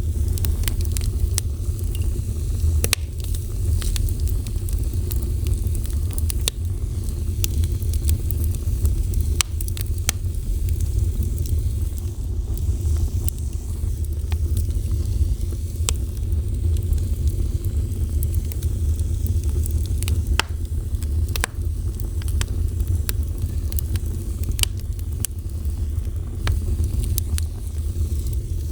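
Fire burning, with frequent sharp crackles and pops scattered over a steady low rumble.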